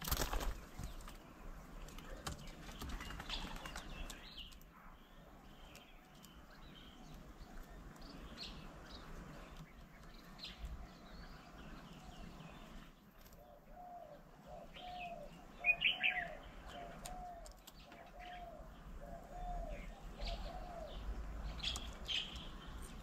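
Birds at a garden bird table: a brief loud flutter of wings at the very start, then scattered short chirps. Past halfway comes a series of about nine low, evenly spaced hooting coos, with one louder high call in the middle of it.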